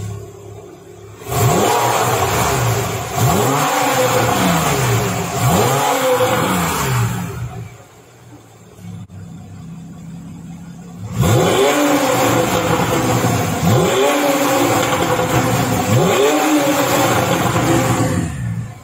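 Porsche 991.1 Carrera 4S's 3.8-litre flat-six on its stock exhaust, idling and then revved three times with the exhaust valves closed, each rev rising and falling quickly. After a few seconds of idle it is revved three more times with the stock exhaust valves open, then drops back to idle near the end.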